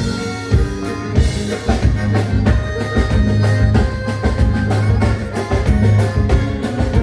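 Live gaúcho dance band playing a vanerão, with a drum kit keeping a quick, steady beat under the instruments and no singing.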